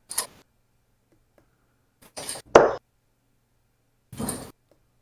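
Darts striking a dartboard: three short thuds about two seconds apart, the middle one the sharpest and loudest.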